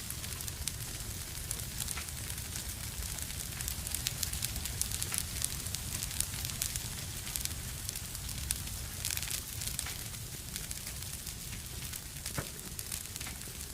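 Fireplace fire crackling, with frequent sharp pops over a steady low rumble and hiss.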